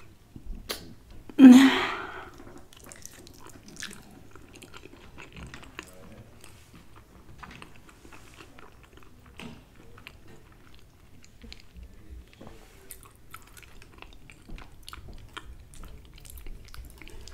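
Close-up chewing of a forkful of meatloaf, with soft, irregular wet mouth clicks. A single loud breathy mouth sound comes about a second and a half in.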